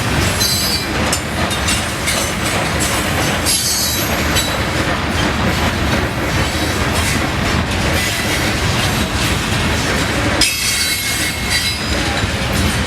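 A train rolling past close by, its wheels running steadily over the rails. Brief high wheel squeals come about half a second in, around three and a half seconds in, and again from about ten and a half seconds.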